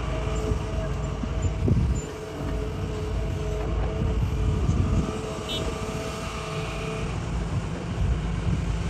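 Hitachi excavator working rock: a heavy diesel engine runs under load with a low rumble and a steady whine that stops about seven seconds in, with a few low thuds.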